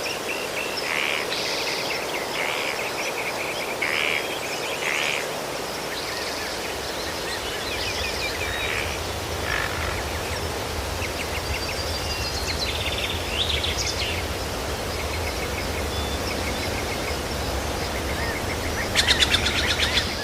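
Several small birds chirping and trilling in short scattered calls over a steady outdoor hiss, with a low rumble coming in partway through. Near the end a loud, rapid chattering call is the loudest thing heard.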